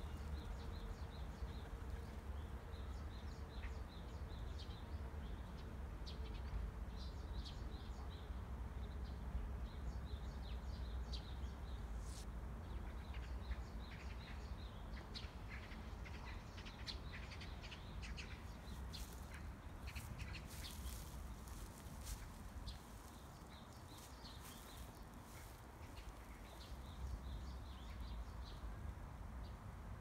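Small birds chirping in many short, high notes, faint and scattered, over a steady low rumble. The chirping thins out in the last third.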